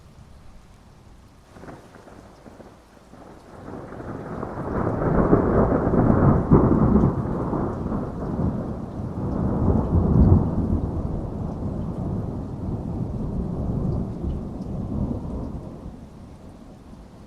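A thunderclap: a short crack about a second and a half in, then a long rumbling roll that swells for several seconds and dies away near the end, over steady rain.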